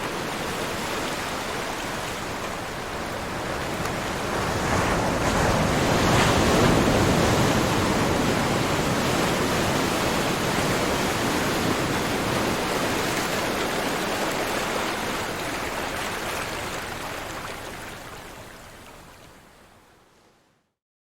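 Ocean surf: a steady wash of waves that swells to its loudest about six seconds in, then slowly fades away to silence near the end.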